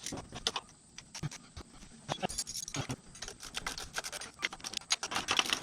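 Hand tools and hardware clinking against metal: a run of irregular sharp metallic clicks and rattles, busier after about two seconds, as the engine's mounting bolts are worked loose.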